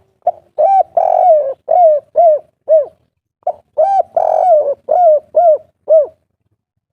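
Spotted dove (derkuku) singing its 'kuk 3' song: two cooing phrases about half a second apart. Each phrase has a short note, a longer coo and then three short 'kuk' notes at the end.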